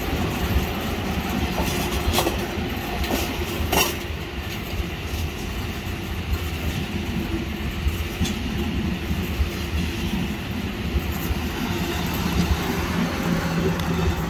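Passenger train running past with a continuous rumble of wheels on the rails, broken by two sharp knocks about two and four seconds in. A steady hum joins near the end.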